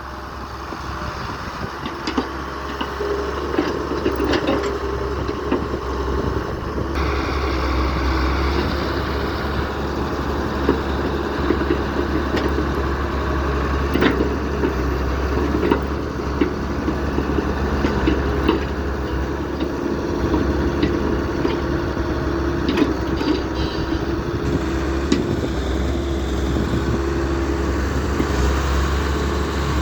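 CAT E120 hydraulic excavator's diesel engine running steadily while it digs and loads, with a low drone and a wavering engine note that rises and falls with the work. Scattered sharp knocks come from the bucket and the load.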